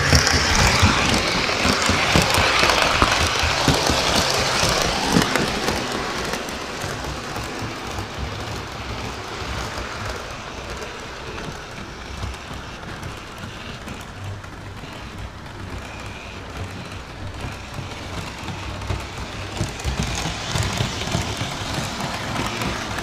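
Model trains running on a layout's track: a steady rattling clatter over a low rumble, louder for about the first five seconds, then softer.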